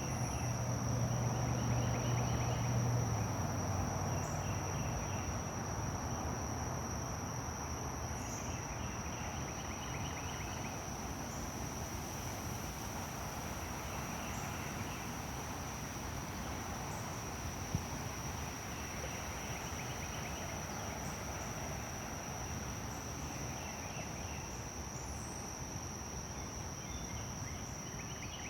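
Insects trilling outdoors: a continuous high-pitched buzz, with short bursts of rapid chirping every few seconds over a steady background hiss.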